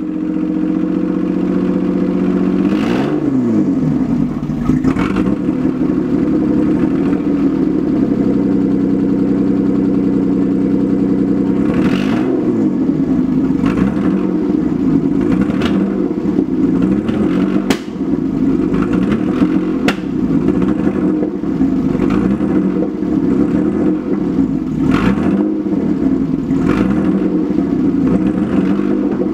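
Engine of a replica Lamborghini running while the car is driven, its pitch swooping down and back up every few seconds. A few sharp knocks come over it.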